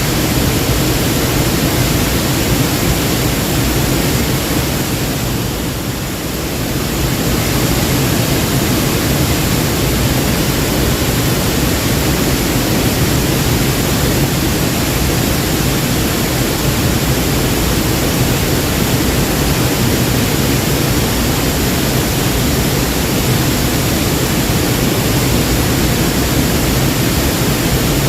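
Waterfall: water rushing and splashing as a steady, loud roar that dips slightly for a moment about six seconds in.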